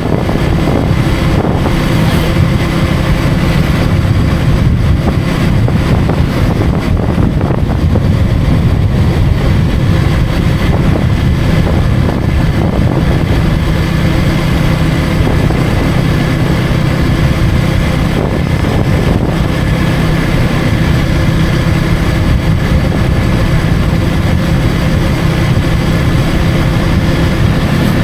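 KTM Duke 250 motorcycle's single-cylinder engine running at a steady cruising pace, with wind and road noise rushing over the microphone.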